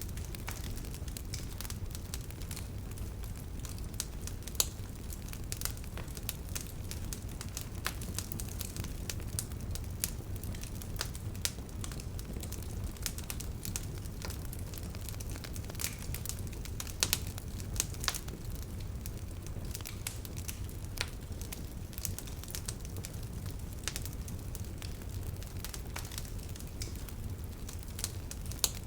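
Wood bonfire crackling: irregular sharp pops and snaps over a steady low rumble of the burning fire, with a few louder pops about five seconds in and around seventeen seconds.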